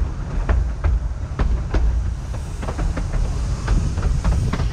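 Narrow-gauge railway train running along the track: a steady low rumble with frequent irregular clicks and rattles of the wheels and carriages over the rails.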